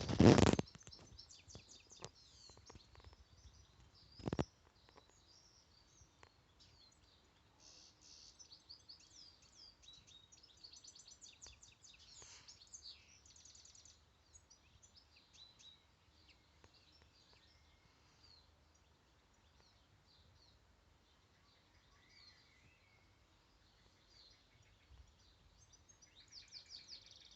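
Small birds singing: many short, high chirps and trills, busiest in the middle and again near the end. Two loud thumps break in, one at the very start and one about four seconds in.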